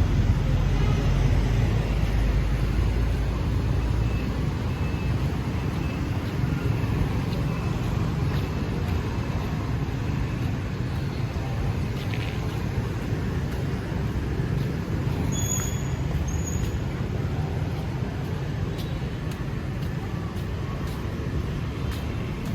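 Steady road traffic noise, a low rumble of passing engines and tyres, heaviest in the first few seconds and then easing off.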